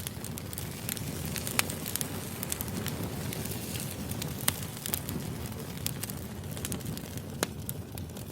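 Firewood burning in a steady low rush, crackling with irregular sharp pops. A few louder pops come about a second and a half in, midway, and near the end.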